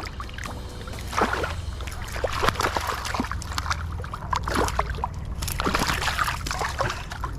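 Water splashing and sloshing in irregular bursts, from a hooked trout being brought in by hand at the surface, over a steady low rumble.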